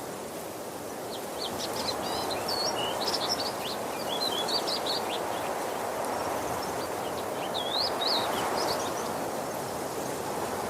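Steady rushing of a waterfall, with small birds chirping over it: a run of quick high chirps from about a second in to five seconds, and another short phrase around eight seconds.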